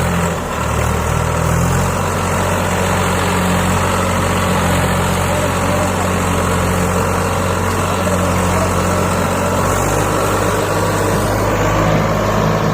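Swaraj 744 FE tractor's diesel engine running steadily, its pitch shifting slightly about ten seconds in.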